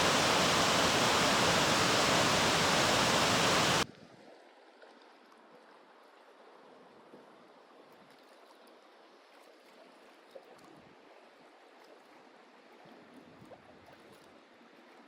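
Rushing water of a mountain stream, a loud steady rush that cuts off abruptly about four seconds in. A much fainter hiss with a few small ticks follows.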